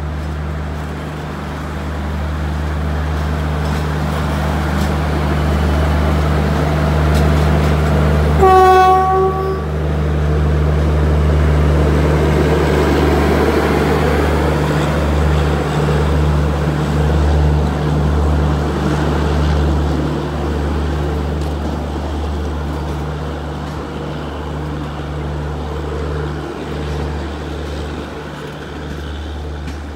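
WAP-1 electric locomotive hauling a passenger train past on departure: a steady low hum and the rumble of coaches rolling on the track, with one horn blast lasting about a second around eight seconds in. The rumble is strongest just after the horn and fades near the end.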